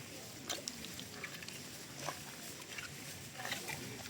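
Rain falling: a steady hiss with irregular taps and drips of drops landing close by.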